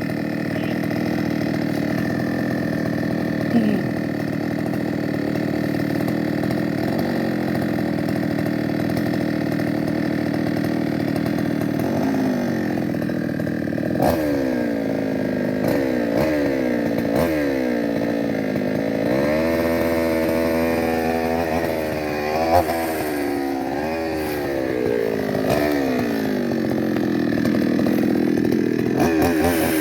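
Chainsaw engine idling steadily. From about twelve seconds in it is revved up and down again and again, its pitch rising and falling with each blip of the throttle.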